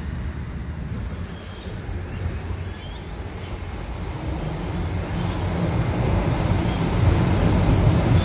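A train approaching, its low rumble growing steadily louder through the second half.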